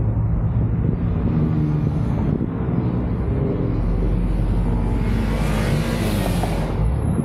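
Car engine running at low speed while driving, its pitch drifting up and down a little, with a louder rushing hiss between about five and seven seconds in.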